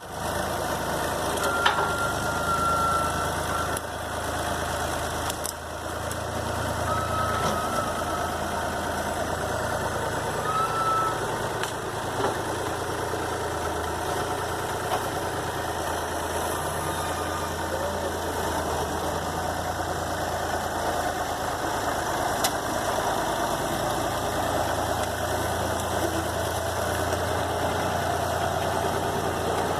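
Tractor engine running steadily, with a few clicks and knocks over it.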